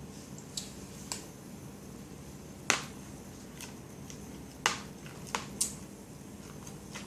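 A spoon clicking and knocking against dishware as a toddler feeds herself, about six sharp knocks. The loudest comes near the middle, and two fall close together later on.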